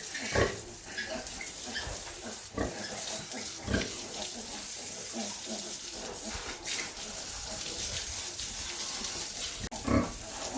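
Pigs grunting a few times over a steady hiss of running water.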